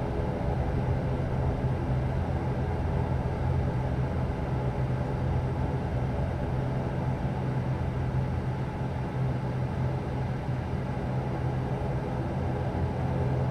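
Steady low drone inside the cabin of an ATR turboprop airliner after landing: engine hum and air noise with a strong low tone, even throughout.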